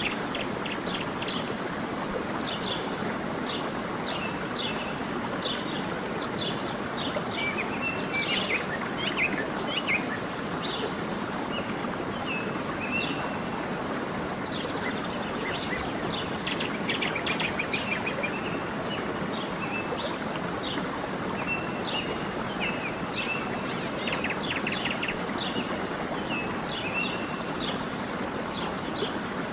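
Steady rushing of a stream, with many small birds chirping and trilling over it throughout.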